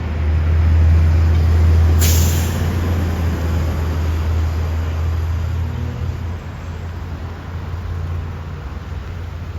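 Fire engine's diesel engine running with a deep rumble, with a short air-brake hiss about two seconds in; the engine sound gets quieter about six seconds in.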